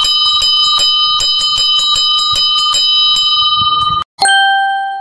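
A bell ringing rapidly and continuously, struck several times a second, for about four seconds; it stops suddenly, then a single lower bell strike rings out and slowly fades.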